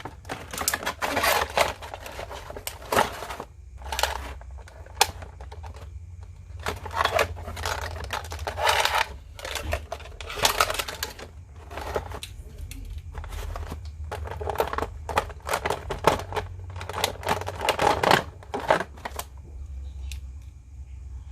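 Hands handling a plastic action figure and its packaging: an irregular run of clicks, taps and short rustles that thins out near the end.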